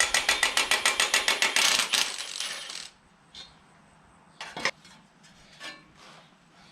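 Milwaukee M18 Fuel cordless impact wrench hammering on a low torque setting, about ten blows a second, as it undoes a bolt; it stops about three seconds in. A few light metallic clinks follow.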